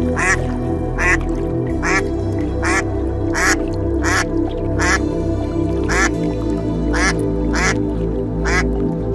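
Soft background music with sustained low tones, over which a bird gives a string of short calls, about eleven of them at roughly one every 0.8 seconds.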